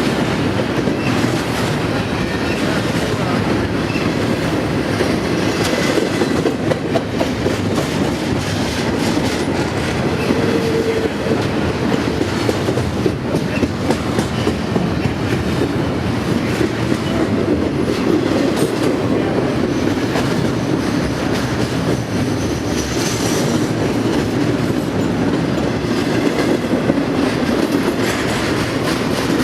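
A train rolling past close by: steady wheel-on-rail noise with a continuous run of clicks, as the cars pass without a break.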